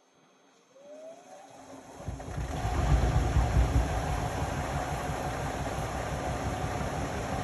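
Indesit Innex BWE 91496X washing machine starting up after a pause: a short rising whine from the motor, then the drum runs with a loud, steady rumble.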